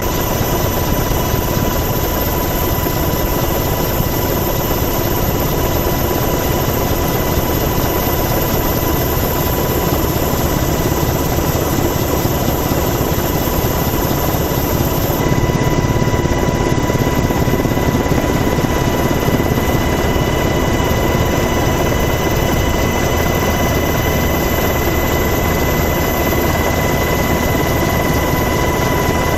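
Steady mechanical drone of engine noise with a constant high whine laid over it, unchanging in level throughout.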